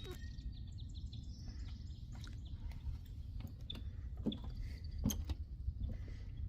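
Small birds chirping and trilling faintly over a steady low rumble, with scattered light clicks.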